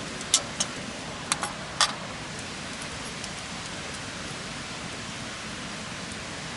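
Wood campfire crackling with a steady hiss, and several sharp pops in the first two seconds.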